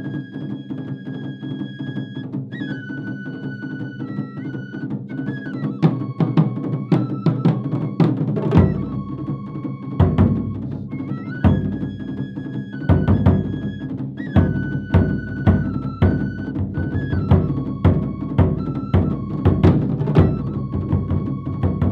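Japanese taiko drum ensemble playing over a high, stepping melody line. About six seconds in the drum strokes grow louder and denser, and deep big-drum strokes join a couple of seconds later.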